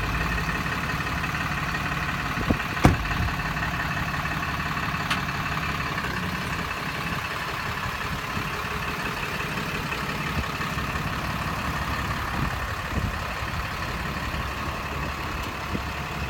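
A motor vehicle engine running steadily, with a couple of sharp clicks about three and five seconds in.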